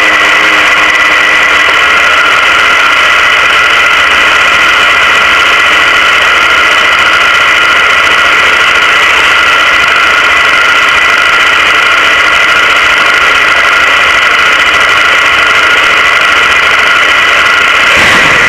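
A 400-cubic-inch Chevrolet V8 in a drag car idling loudly and steadily, heard from on board the car.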